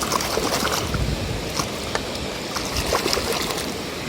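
Water running and splashing as a muddy toy car is rinsed and washed by hand, with scattered small clicks.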